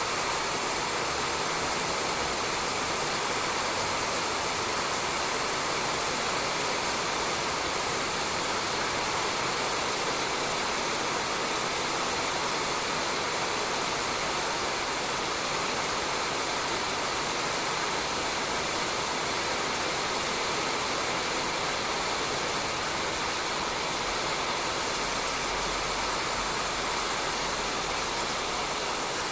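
Steady rain falling on a roof, an even hiss with no change in strength.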